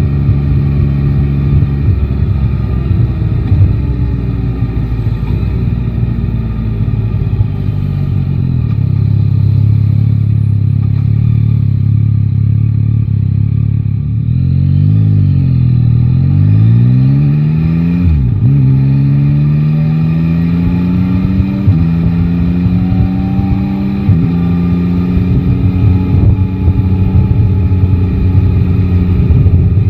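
Yamaha Tracer 9 GT's 890 cc inline-three engine under way. It runs steadily, eases off briefly near the middle, then accelerates hard through three quick upshifts, the pitch climbing and dropping abruptly at each shift, before settling into a steady cruise.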